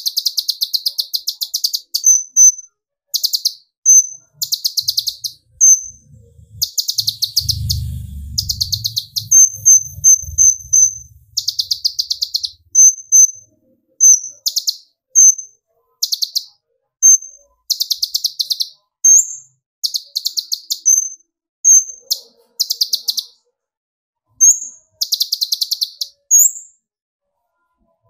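Kolibri ninja (konin) sunbird singing a lively, 'emotional' song: repeated bursts of rapid, high clicking trills, each about a second long, alternating with short high whistled notes. A low rumble runs underneath for a few seconds starting about seven seconds in.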